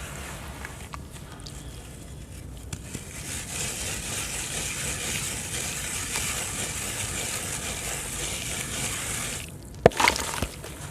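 Dry sand-cement crumbling in water, with a steady fizzing crackle. Near the end a few sharp, loud cracks stand out.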